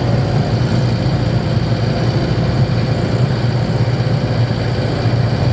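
Campervan engine running steadily while driving, with a newly fitted timing belt; it sounds quiet.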